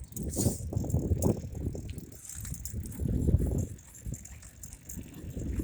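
Bicycle rattling and clattering as it is ridden, with scattered knocks over an uneven low rumble.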